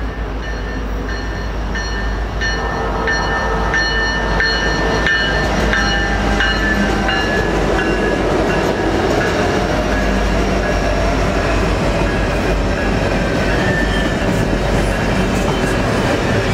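Union Pacific diesel locomotives hauling a double-stack container train approach and pass close by, the train noise growing louder over the first few seconds, with steady whining tones in the first half. Then the container cars roll past, their wheels clicking on the rails.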